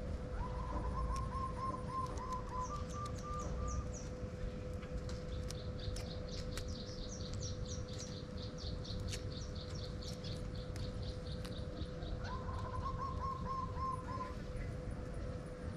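Small birds calling in rapid series of short repeated chirps: a lower, quicker run of notes early on and again near the end, and higher chirps running through the middle. Under them are a steady faint hum and a low rumble.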